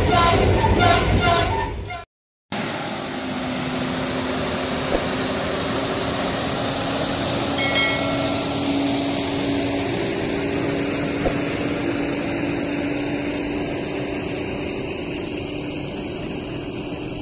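A short intro tune that cuts off after about two seconds. Then a freight train of boxcars rolls past behind a road-rail semi truck, a steady rumble with a low steady hum that eases slightly near the end.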